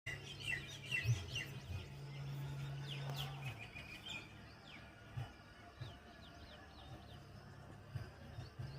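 Small birds chirping in quick, short notes, busiest in the first two seconds and again near the end. A steady low hum and a few soft low bumps run underneath.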